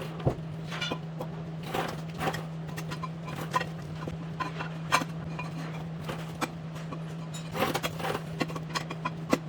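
Scattered light clicks and knocks from parts being handled during reassembly of a tractor's front wheel hub, over a steady low hum.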